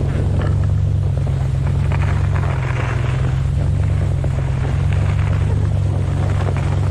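Pickup truck engine running steadily as it tows sleds over snow, a constant low drone with a rough rushing noise above it.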